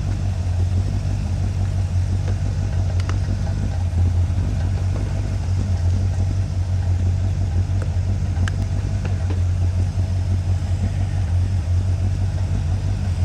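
1981 Corvette's 350 V8 idling steadily, with a few faint clicks over it.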